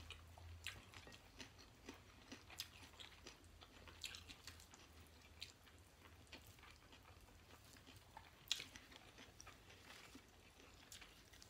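Faint chewing and mouth sounds of people eating rice, meat and greens by hand: soft scattered smacks and small clicks, with one sharper click about three-quarters of the way through.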